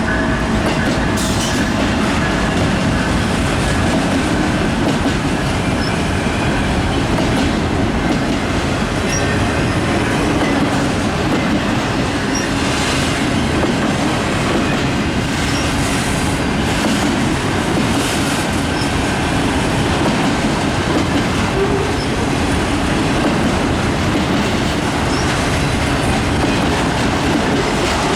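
Canadian National freight train's cars rolling steadily past, a loud continuous rumble with wheels clattering over rail joints and occasional faint wheel squeal.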